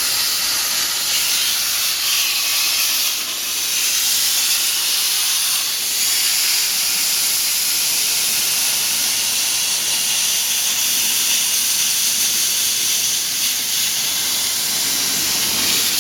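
Steady hiss of a metal-cutting torch cutting stove pieces out of sheet metal along a template.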